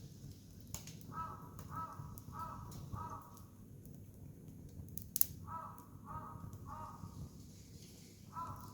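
A crow cawing in runs of harsh, evenly spaced caws, four and then three, with another run starting near the end. Under it a wood campfire crackles, with a sharp pop about five seconds in.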